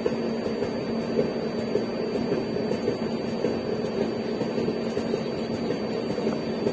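Steady running noise of an Indian Railways express passenger coach moving at speed: wheels on the rails and the coach's rumble, with a faint steady hum underneath, heard from aboard the coach.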